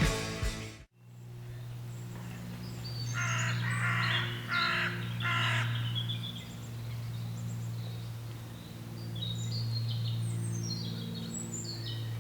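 Music cuts off about a second in, giving way to outdoor birdsong over a steady low hum. Four harsh, cawing bird calls come in a row in the middle, followed by scattered high chirps and tweets near the end.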